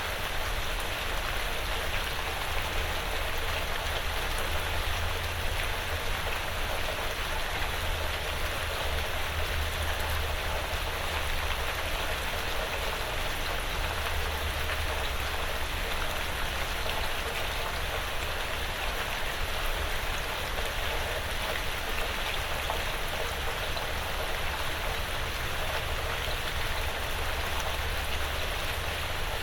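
Light rain falling steadily on a porch roof and the surrounding woods, a dense even patter of drops.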